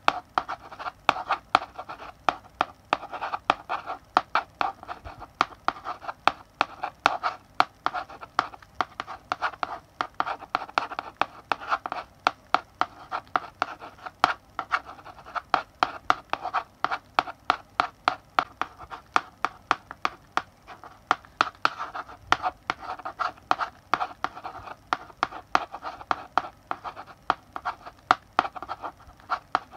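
Chalk writing on a blackboard: a run of quick, irregular taps as the chalk strikes the board, over a steady scratchy rasp of strokes.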